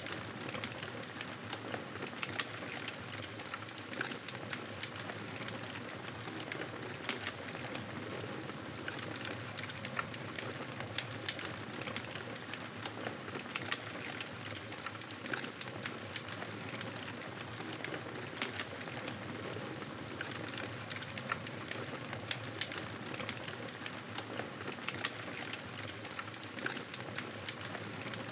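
Campfire burning with a steady hiss and many irregular small crackles and pops throughout.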